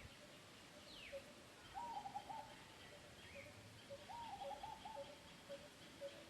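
Faint birdsong: one bird repeats a short low note about twice a second throughout. Another gives two quick runs of three or four arched whistled notes, and a high falling whistle sounds about a second in.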